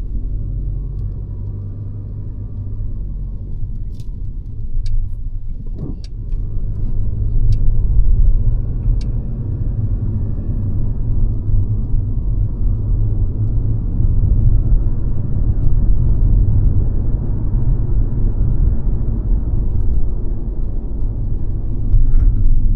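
Mercedes-Benz C-Class car on the move: a steady low rumble of engine and road noise, swelling a little at times, with a few faint clicks a few seconds in.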